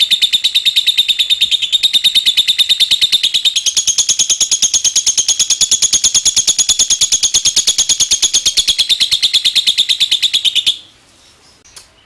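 Lovebird doing a long ngekek: a fast, even, unbroken run of sharp high chirps. It shifts higher about three and a half seconds in and stops abruptly near the end.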